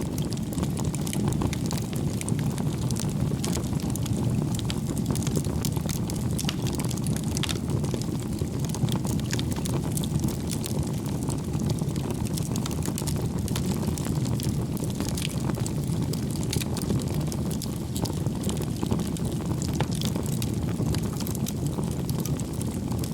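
Wood fire burning, a steady low rumble of flames with scattered sharp crackles and pops from the logs.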